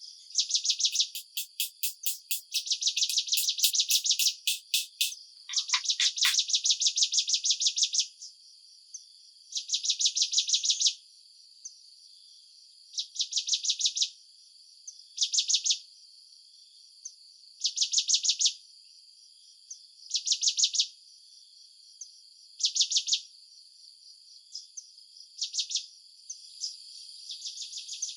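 Insects chirping: repeated bursts of rapid, high-pitched pulses, each about a second long and a second or two apart, over a steady high insect hum. The bursts are longest and densest in the first eight seconds and sparser after.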